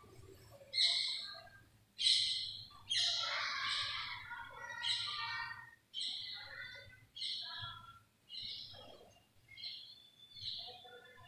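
Birds calling: a series of short, faint chirps, about one a second.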